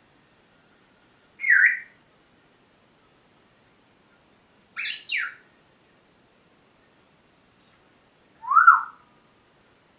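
Pet parrot giving four short, separate calls and whistles, the last one the loudest.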